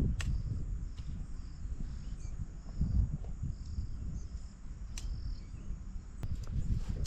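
Insects, likely crickets, chirping in short repeated bursts, with a low rumble underneath and a few sharp clicks.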